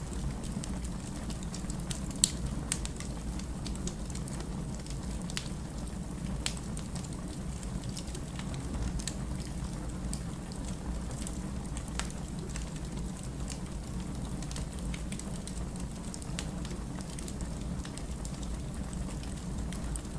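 Wood fire burning in a fireplace: a steady low rumble with scattered crackles and sharp pops, one louder pop about two seconds in.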